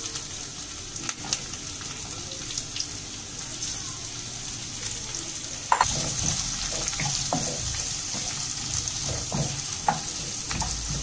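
Ginger-garlic paste sizzling in hot coconut oil in a kadai, with scattered clicks of a stirring spoon. About six seconds in, the sizzle jumps suddenly louder as chopped onion and green chilli go into the oil, and it keeps frying at that level.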